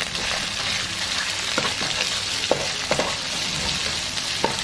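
Curry paste, shrimp paste and chillies sizzling in oil in a nonstick wok, with a steady hiss. A spatula stirs through them, scraping and tapping the pan a few times.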